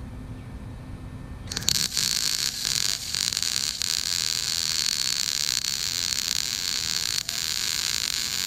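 Lincoln Electric wire-feed welder laying a bead with flux-cored wire: the arc's loud, steady crackling hiss starts suddenly about a second and a half in and keeps going, with a few brief breaks in it.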